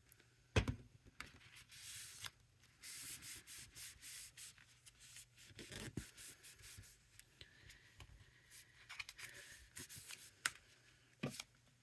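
Paper and card being handled: faint rubbing and rustling strokes, on and off, with a few light taps.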